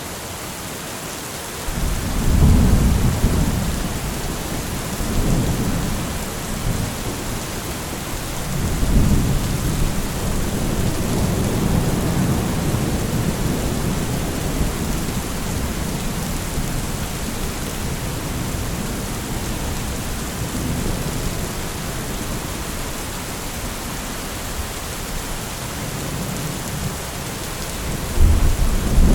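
Steady heavy rain with rolling thunder. A deep rumble breaks in about two seconds in, swells again twice over the next several seconds and slowly fades, and a fresh peal starts near the end.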